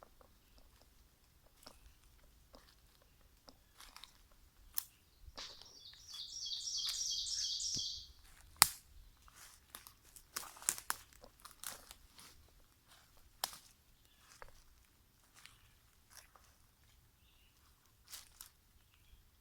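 Footsteps crunching over forest-floor litter and twigs, with scattered cracks and one sharp snap just under nine seconds in. A bird sings a rapid, high trill of quick repeated notes for about two and a half seconds, starting about five seconds in.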